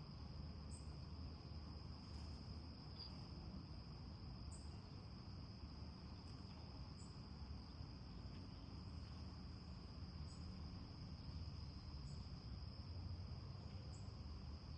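Faint nature-sounds ambience of crickets chirping in a steady, unbroken high trill, with brief higher chirps every second or two.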